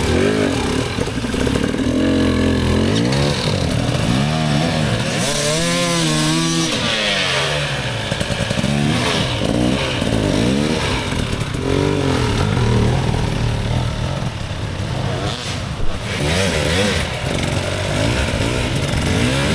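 Dirt bike engine revving up and down again and again as a rider works the throttle climbing a steep hill, with one brief sharp knock near the end.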